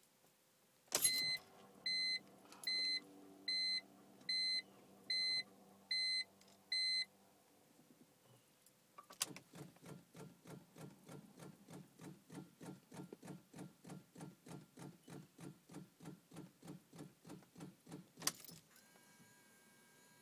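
A click, then eight evenly spaced electronic beeps from the car. Then the BMW's starter cranks the engine in a steady rhythm, about three to four beats a second, for about nine seconds without it catching, and stops with a click: the car won't start.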